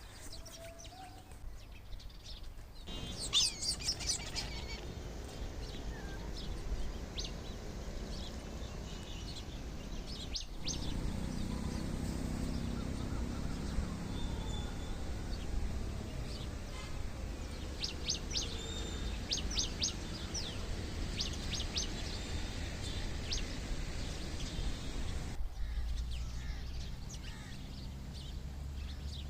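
Small birds chirping: many short, high calls, clustered about three seconds in and again in the second half, over a steady low background rumble.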